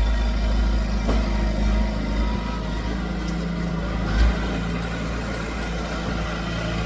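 Diesel engine of heavy earthmoving machinery running steadily, with a short thump about four seconds in.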